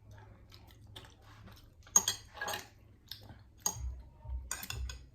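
Close-up eating sounds: a utensil clicking against a dish several times, the sharpest click about two seconds in, followed by soft chewing of hot macaroni and cheese.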